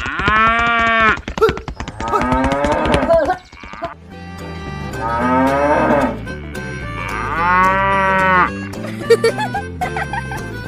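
Cattle mooing: four long calls, each about a second, rising and falling in pitch.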